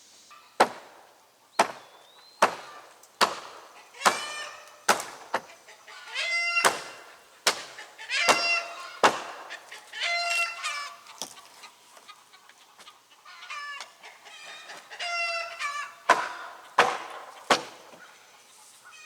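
Hammer blows knocking apart old wooden deck boards, mixed with short, high squeals of nails being pried out of the wood as the boards come loose.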